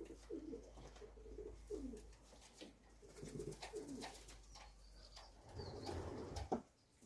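Racing pigeons cooing, repeated low burbling coos, with scattered light clicks and one sharp click near the end.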